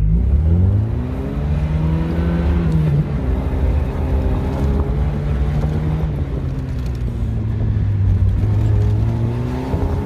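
Fiat 124 Spider's twin-cam four-cylinder engine accelerating. It rises in pitch over the first seconds and drops at a gear change about three seconds in. It then runs fairly steadily and climbs again near the end.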